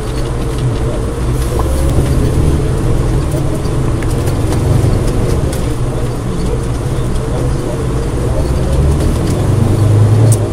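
Off-road 4x4's engine running hard under load as the vehicle ploughs through deep snow: a continuous deep rumble with a wavering higher engine note, swelling to its loudest near the end. Scattered clicks come from chunks of snow and debris striking the vehicle.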